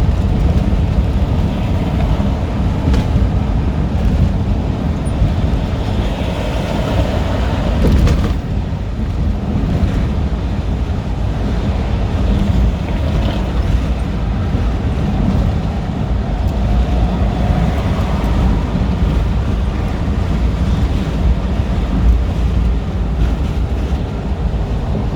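Semi truck driving on the freeway: steady engine and road noise with wind rumble, heard from the cab.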